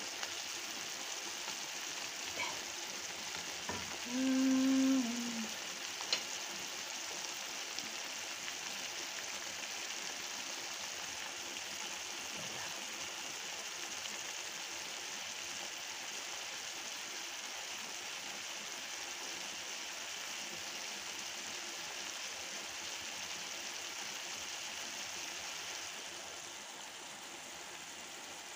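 Pork chop strips and sliced white onion sizzling in sauce in a nonstick frying pan, a steady hiss that eases a little near the end. There are faint taps about two and six seconds in, and a brief steady tone, the loudest sound, about four seconds in.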